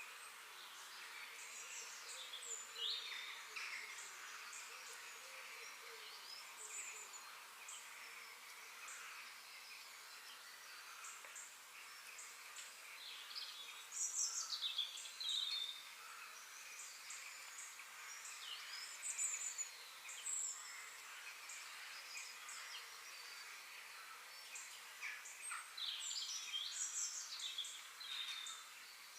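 Several wild birds chirping and calling over a steady faint hiss. The chirps come in clusters, louder about 14 and 19 seconds in and again near the end.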